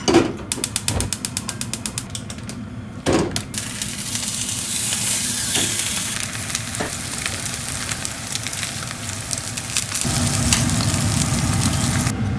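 A quick run of clicks in the first second or so, a knock about three seconds in, then steady sizzling of food frying in a hot pan.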